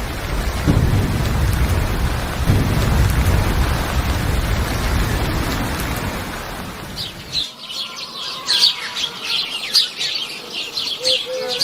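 Heavy rain with low rumbles of thunder, which stop abruptly about seven seconds in; birds then chirp in quick repeated calls.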